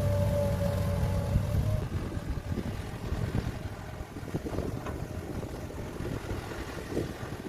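Heavy diesel mining machinery running: a steady engine drone with a higher whine over it for the first couple of seconds, then easing to a lower, rougher rumble with scattered knocks.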